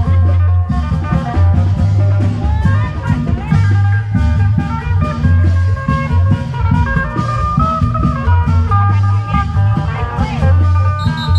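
Isan klong yao long-drum band music: a heavy, steady drum beat under a plucked-string melody that bends in pitch.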